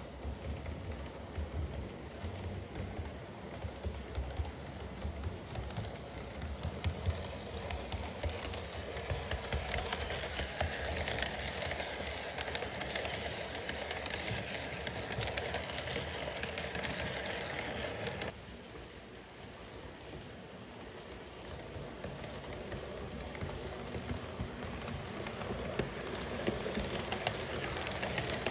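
Model trains running on a layout, with a steady rolling rumble and many small rapid clicks from wheels on the track. The sound drops off abruptly about 18 seconds in, then slowly builds again.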